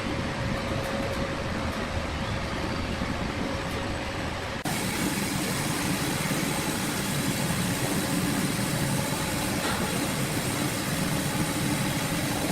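Sawmill machinery running steadily with a low mechanical hum and a faint steady tone, changing abruptly about four and a half seconds in, as at a cut between shots.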